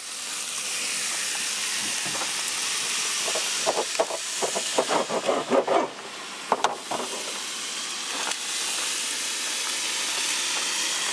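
Bacon sizzling in a small pan on a canister gas camp stove: a steady hiss, with a few short louder sounds in the middle.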